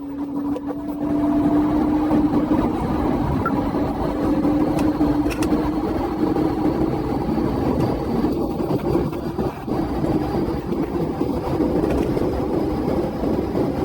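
Police car driving at speed in a pursuit: steady engine and road noise.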